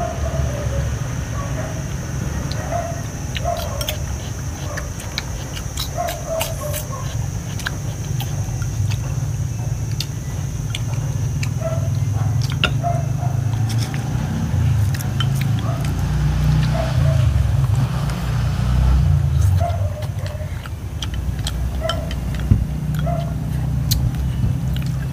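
Clicks and clinks of chopsticks and spoons against bowls at a meal, over a steady low rumble. Short low calls come and go irregularly, and a thin high tone holds steady throughout.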